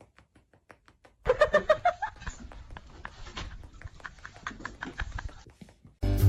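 A pet animal gives a short pitched call about a second in, with light clicks and taps scattered around it.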